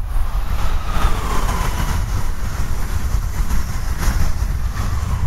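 Amtrak Acela Express electric high-speed trainset passing at speed: a loud, steady rush of wheels on rail and air, with a faint whine that falls in pitch about a second in.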